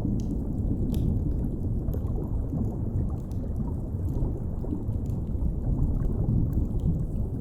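Deep underwater ambience, a steady low rumble, with a fireplace crackling over it in scattered sharp pops about once a second.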